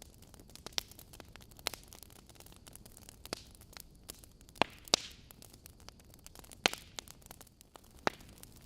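Burning logs in a fireplace crackling: irregular sharp pops and snaps over a faint steady hiss, with the loudest pops a little after the middle and near the end.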